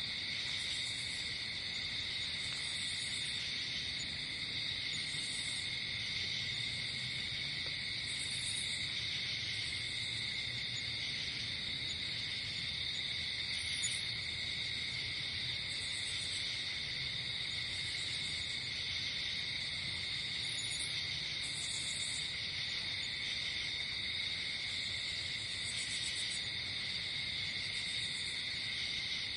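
Night insect chorus: crickets trilling steadily, with a higher-pitched insect chirping in short bursts every two seconds or so.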